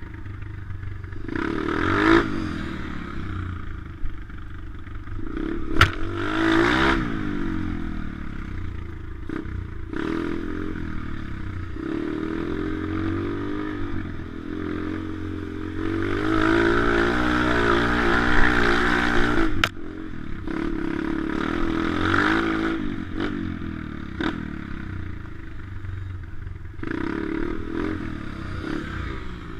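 Pit bike's small single-cylinder engine revving up and easing off again and again as it is ridden, with sharp knocks about six seconds in and again near twenty seconds.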